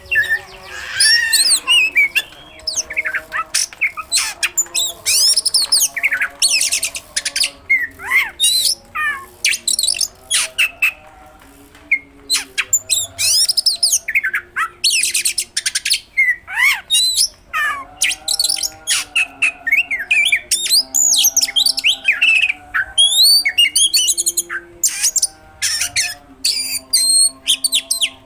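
Oriental magpie-robin (kacer) singing non-stop: a dense, loud run of sharp whistles, quick rising and falling notes and harsh chatters with only short breaks. This is a full 'gacor' song packed with mimicked phrases, used as a lure song to set other magpie-robins singing.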